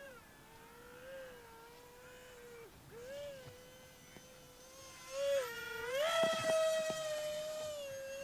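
Twin electric ducted fans of a small RC jet whining in flight, the pitch wavering up and down as the two fans change speed, then swelling louder and higher about five seconds in. The pilot takes the changing fan speeds for differential thrust helping the jet turn.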